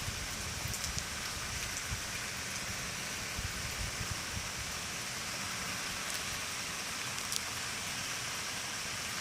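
Steady rushing of wind through tree leaves, with a low rumble of wind buffeting the microphone.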